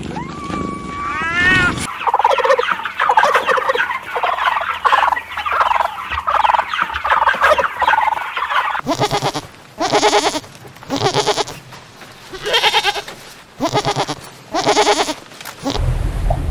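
A cat gives a short meow. Then a flock of domestic turkeys chatters with clucks and yelps. From about nine seconds in come about six loud rattling gobbles, and a low rushing noise starts near the end.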